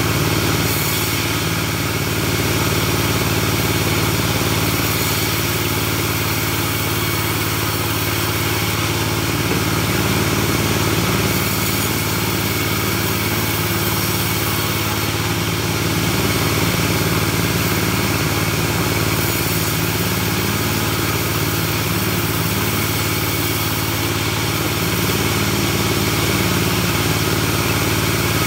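Engine-driven portable bandsaw sawmill running steadily: a constant engine drone with a steady hiss over it, swelling slightly in loudness now and then.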